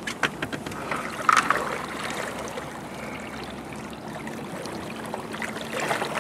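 River water running steadily, with a few short clicks and knocks in the first second.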